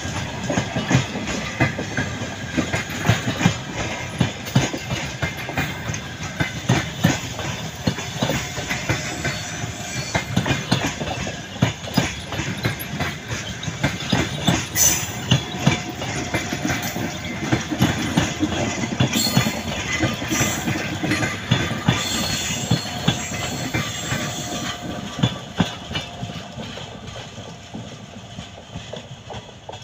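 Passenger coaches rolling past at low speed, their wheels knocking over the rail joints in a dense clickety-clack. The sound fades over the last few seconds as the last coach moves away.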